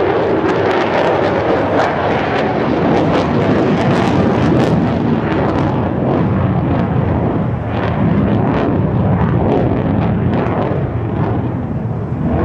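Loud jet roar of an F-35A's single Pratt & Whitney F135 afterburning turbofan in a display flight, with a ragged crackle through it. About halfway through the crackle thins and the roar turns duller.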